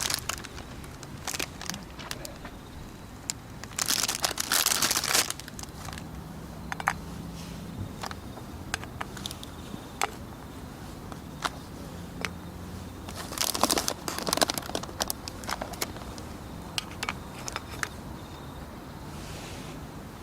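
Wood campfire crackling with scattered sharp pops, and two bursts of crinkling, about four and about thirteen seconds in.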